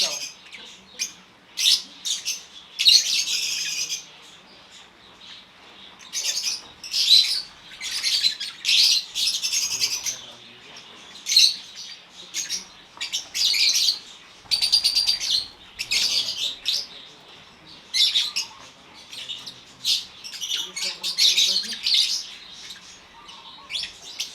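African lovebirds calling in an aviary: shrill chirps and squawks in short bursts, one after another, with several birds overlapping.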